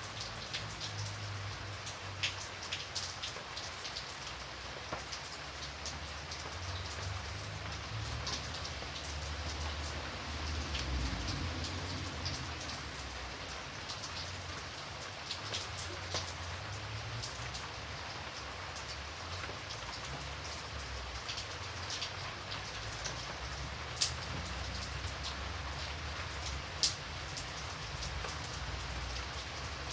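Steady rain falling, with individual drops ticking sharply on a surface throughout and two louder drop hits near the end, over a low rumble.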